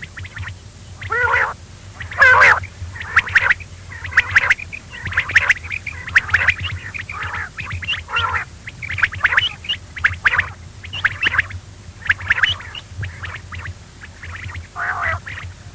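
Quail calling repeatedly: short chirping, warbling calls, about one or two a second, over a steady low hum.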